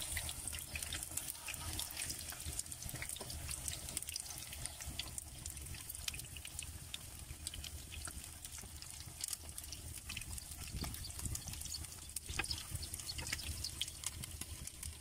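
Battered pieces of beef tongue frying in hot oil in a skillet: a steady sizzle with fine crackles as the pieces are turned over with a fork.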